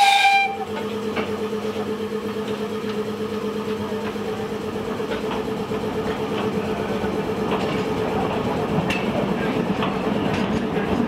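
Narrow-gauge train running, with a steady hum and faint clicks from the wheels over the rail joints. A loud, hissing whistle cuts off about half a second in.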